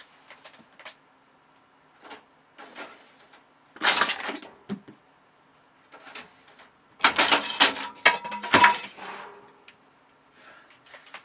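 Clattering and knocking of hard objects: a short burst about four seconds in, then a longer, louder run of hits with a brief metallic ring, between quieter taps.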